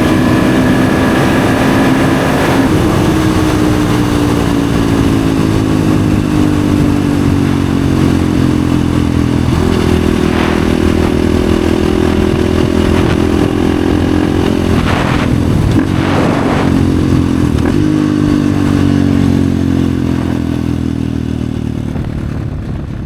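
Husqvarna FE 450 four-stroke single-cylinder enduro motorcycle running through an FMF exhaust. The engine note sinks gradually and steps back up a few times, and fades out near the end.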